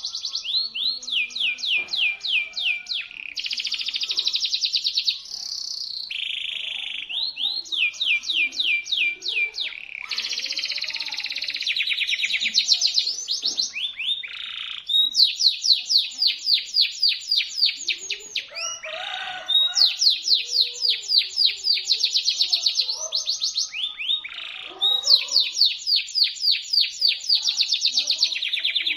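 A local canary singing shrill, sharp song: phrase after phrase of fast trills, each a rapid run of repeated sweeping notes.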